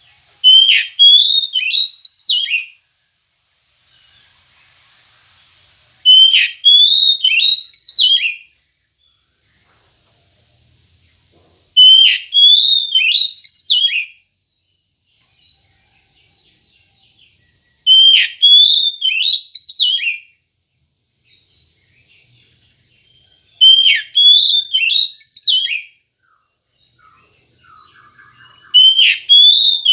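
Oriental magpie-robin (kacer) singing: a short whistled phrase of several sharp, sweeping notes, each about two and a half seconds long, repeated about every six seconds.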